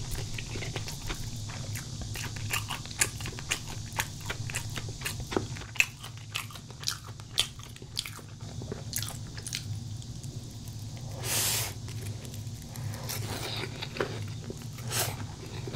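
Breaded pork cutlet being bitten and chewed close to the microphone: a rapid run of crisp crunches, with one longer noisy sound about eleven seconds in.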